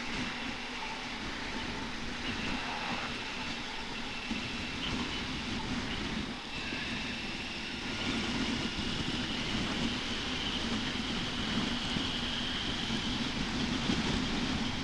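Honda TMX125 Alpha's single-cylinder four-stroke engine running steadily as the motorcycle is ridden, under a continuous rush of road and wind noise.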